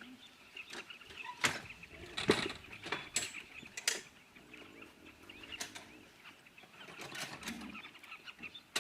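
Birds calling faintly in the background under a run of sharp clicks and knocks, the loudest of them about a second and a half, two and a quarter, and four seconds in.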